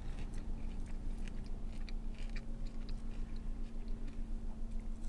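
A person chewing a mouthful of seasoned french fries up close, with small wet crunches and mouth clicks. A steady low hum runs underneath.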